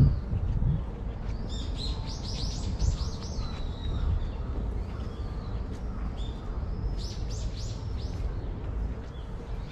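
A songbird calling in two runs of quick, high, sweeping notes, about two seconds apart, over a steady low outdoor rumble, with a dull thump at the start.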